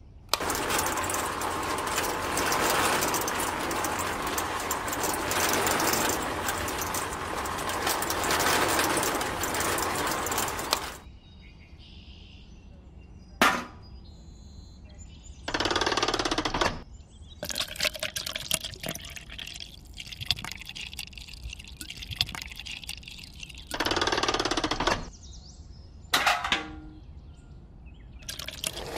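Miniature DIY cement mixer running: a small electric motor turning a tin-can drum of wet sand-cement mix, a loud, even rattle that starts just after the switch is pressed and stops about eleven seconds in. Later come a few short bursts of handling noise and a sharp knock.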